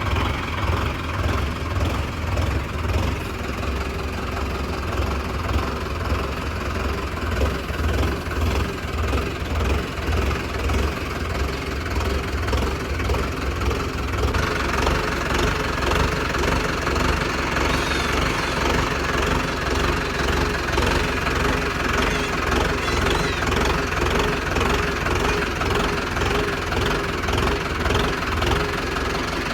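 Mahindra Arjun Novo 605 DI-MS tractor's diesel engine running steadily with a deep low throb, working a Gahir Nippy 45 mini combine harvester attachment. About halfway through, a higher mechanical noise rises and the sound grows a little louder.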